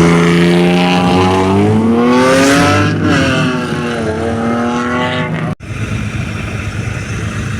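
Rally car launching from the start line at full throttle: the engine revs climb steadily for about three seconds, fall back as it shifts up, and climb again. The sound cuts off abruptly about five and a half seconds in, and a lower, steadier engine rumble takes its place.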